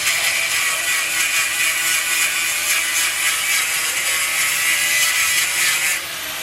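Handheld power tool cutting through a metal strut cup: a steady, even grinding with a high whine, which cuts off about six seconds in.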